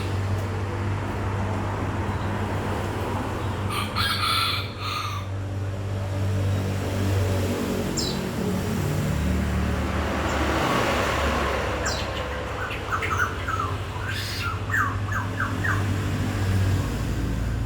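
Birds calling: one longer call about four seconds in, a short chirp near eight seconds, then a run of quick short notes near the end, over a steady low rumble.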